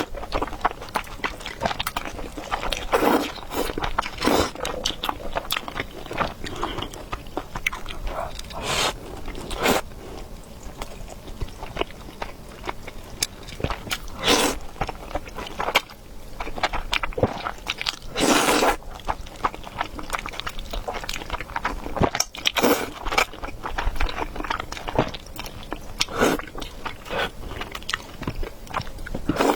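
Close-miked eating of noodles and meatballs: continuous chewing and biting with many small mouth clicks, broken by short louder noises every few seconds.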